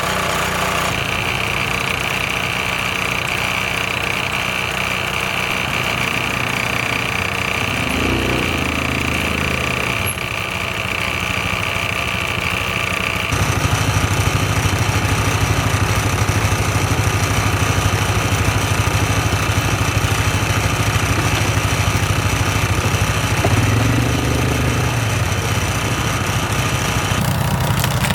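Engine running steadily, its note changing briefly about eight seconds in and again near twenty-four seconds, and getting louder about thirteen seconds in.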